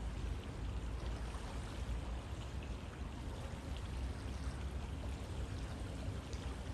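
Flowing river water rushing steadily, with a deep low rumble under the hiss of the water.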